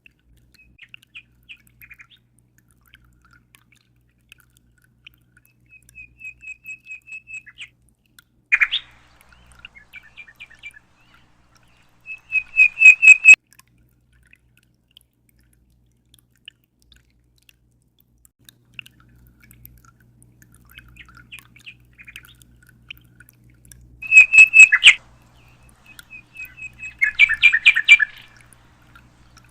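A songbird calling in short phrases of high chirps and rapid trills of repeated notes. Two loud trilling bursts come, one a little before the middle and one about four-fifths through.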